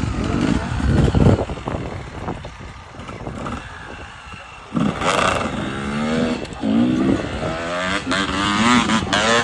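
Off-road motorcycle engine revving, its pitch rising and falling again and again from about five seconds in as the bike is worked over rough ground. Before that there is a louder low rumble, then a quieter stretch.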